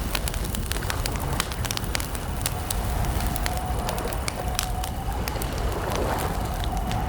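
Wood campfire crackling: many small, irregular sharp pops and snaps over a steady low rumble of the burning fire.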